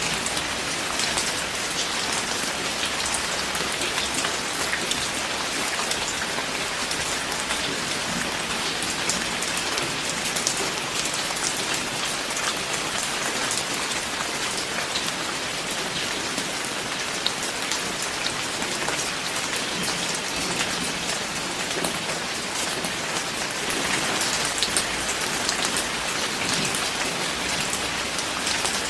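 Steady rain falling: a dense, even hiss of drops with scattered sharper drop taps, slightly heavier for a few seconds near the end.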